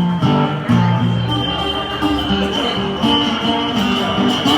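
Blues played on acoustic guitar, an instrumental stretch with no singing.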